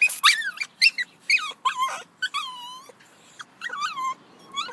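Puppy whining in a run of short, high-pitched cries that bend up and down in pitch, with a brief lull about three seconds in before the cries resume.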